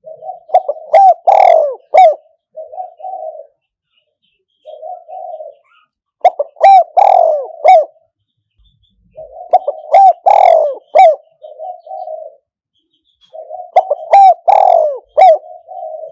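Spotted dove (a caged decoy male) cooing its song: a phrase of soft low coos rising to a few loud, stressed notes, repeated four times about every four seconds.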